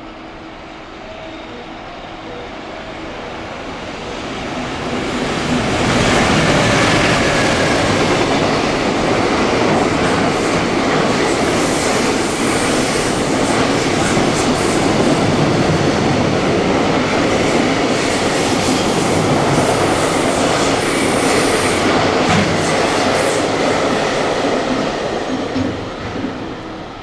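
A train passing through a station at speed without stopping. Its wheel-and-rail rush builds over about five seconds, stays loud for nearly twenty seconds with some clatter and a little wheel squeal, then drops away near the end.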